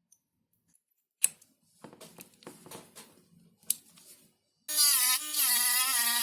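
A few light clicks and taps, then about three-quarters of the way in a small electric ducted fan motor starts abruptly and runs with a loud, buzzing whine whose pitch wavers slightly.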